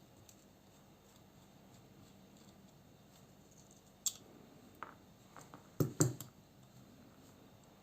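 Sharp clicks and taps of small metal knife parts and tools being handled while a folding knife is taken apart. A single click comes about four seconds in, then a few lighter taps and a louder cluster of knocks near the end.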